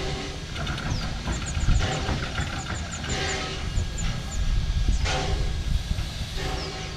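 Mary Valley Rattler heritage train running on the rails: a steady low rumble with irregular rattling.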